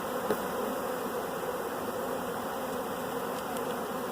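A swarm of honey bees buzzing steadily as many bees fly around while settling into a box.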